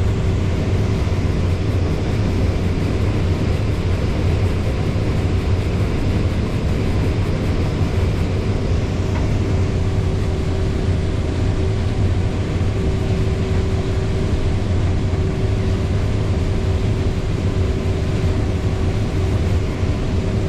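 Combine harvester running steadily while harvesting corn, heard from inside the cab: a constant low drone with a steady whine over it.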